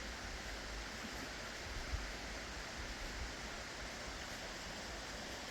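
Steady rushing of a creek flowing, with one soft bump about two seconds in.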